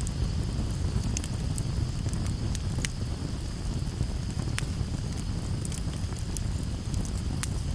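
Wood campfire burning, with a steady low rumble of flame and frequent sharp crackles and pops scattered irregularly throughout.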